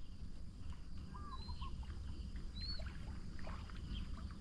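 Faint lakeside ambience: a low steady rumble with a few short, faint bird chirps, about a second in and again near three seconds.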